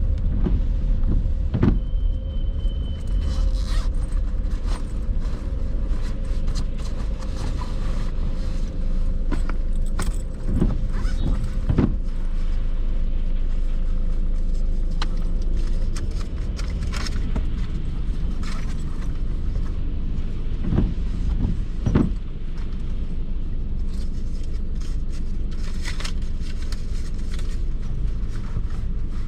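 A car driving: a steady low rumble of engine and road, with scattered short knocks and clicks throughout.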